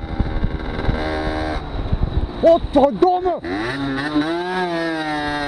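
Motorcycle engine running with low rumbling wind noise on the microphone. About halfway through a man shouts an angry Dutch curse, "Godverdomme!". After that a steady engine note holds, rising and falling slightly.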